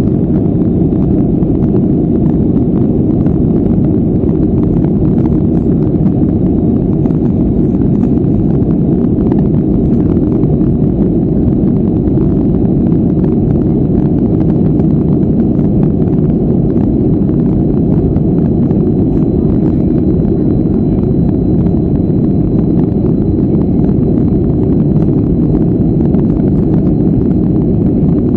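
Boeing 737-400 with CFM56-3 turbofan engines, heard as a loud, steady, deep rumble of engines and airflow inside the cabin, with a faint high whine held steady over it.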